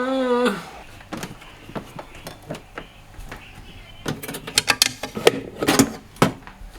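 A short voiced sound at the very start, then a run of scattered light clicks and knocks that come thicker after about four seconds.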